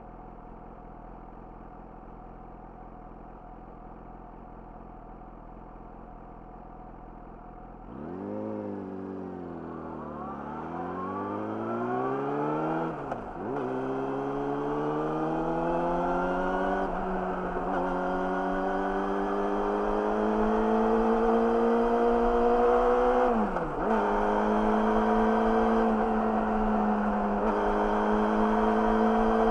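Yamaha YZF-R6 inline-four with an Akrapovic slip-on exhaust, idling steadily at first. About eight seconds in it revs, pulls away and accelerates, rising in pitch through each gear, with quick drops in pitch at the upshifts around the middle, later on and at the very end.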